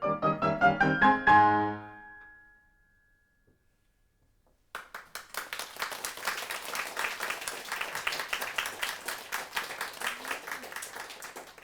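Soprano and piano finish on a rising run and a final high note that dies away about two seconds in. After a short silence, the audience starts applauding about five seconds in and keeps clapping steadily.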